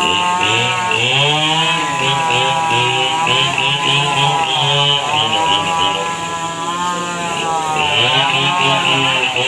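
A small petrol engine revving up and down over and over, its pitch rising and falling every second or two.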